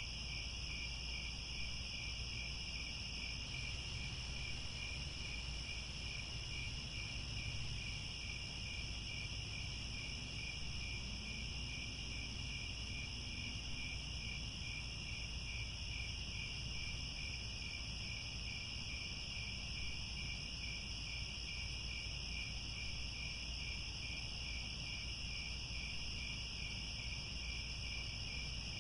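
Chorus of crickets chirping continuously in an even, fast pulsing trill, with a steady low rumble beneath.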